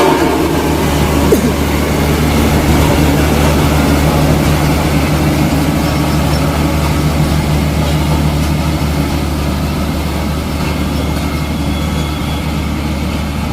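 Heavy diesel engine of a road-construction machine running steadily with a deep, even hum, fading slightly near the end. A brief click about a second in.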